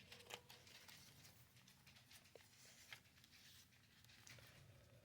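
Near silence with faint scattered ticks and soft rustles of paper pages being handled and turned in a handmade junk journal.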